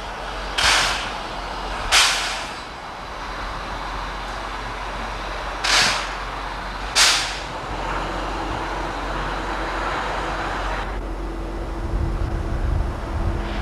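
Steam locomotive letting off four sharp bursts of hissing steam, each dying away within about half a second, in two pairs; after that a steady rumble with a faint low hum.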